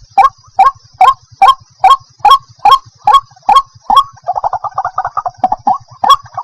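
White-breasted waterhen calling: short, sharp notes repeated about two a second. About four seconds in they break into a faster stuttering run, then the single calls resume.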